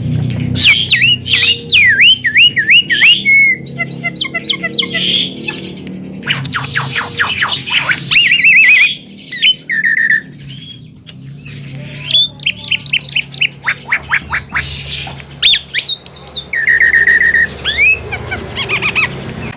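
Javan myna chattering and singing: a busy, varied stream of whistled notes, quick repeated rising-and-falling phrases, rattling runs and squawks, with short pauses between bursts.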